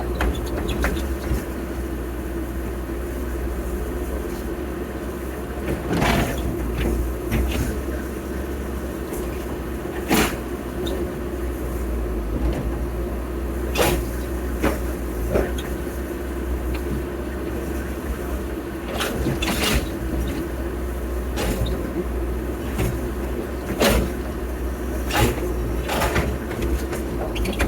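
Heavy diesel earth-moving machinery running steadily, with a dozen sharp knocks and clanks at irregular intervals.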